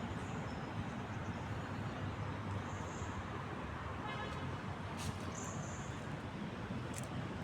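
Steady road traffic noise from passing cars, with a brief toot about four seconds in.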